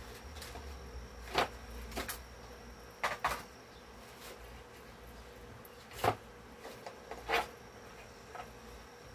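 Scissors snipping grill cloth: a handful of separate short cuts a second or more apart, over a faint steady high whine.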